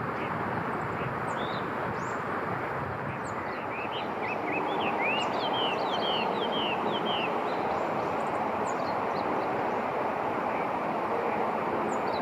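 Small birds calling in a flurry of short sweeping chirps about a third of the way in, with scattered high calls elsewhere, over a steady rushing background noise.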